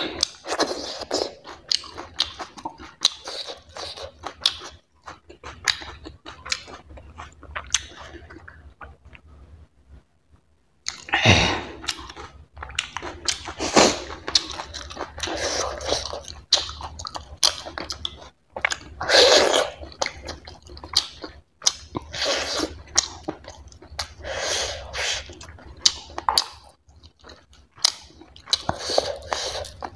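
Close-miked chewing, lip smacking and finger licking of a person eating barley dhido and chicken curry by hand, in irregular wet clicks and smacks. About ten seconds in there is a brief near-silent gap, and the smacks are louder after it.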